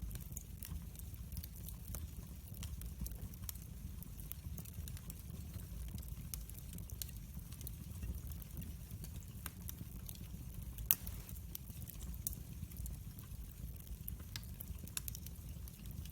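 Wood fire crackling in a fireplace: a steady low rumble of flame under scattered sharp crackles, with one louder pop about eleven seconds in.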